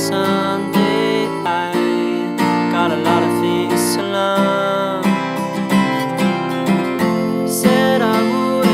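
Acoustic guitar playing, strummed chords with a melody line above them.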